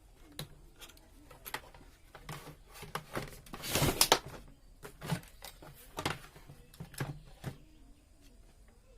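Handling noises from working inside an opened CRT television: scattered light clicks and knocks, with a louder scraping rustle about four seconds in.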